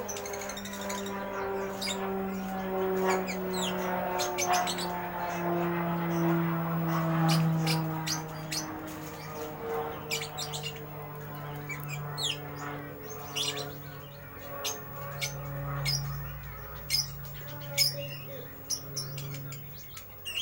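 Lovebird chattering in quick, sharp, high-pitched chirps, the 'ngeriwik' call, over a steady low hum that slowly drops in pitch.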